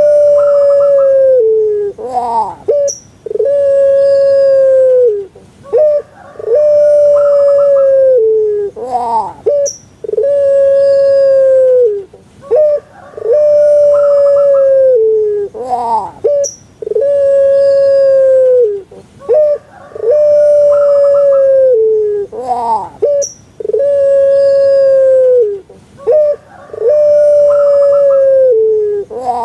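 Puter pelung, a long-calling Javanese breed of Barbary dove, calling over and over: each call is a few short notes and an upward swoop, then a long held note of about two seconds that drops at its end. The call repeats about every three seconds.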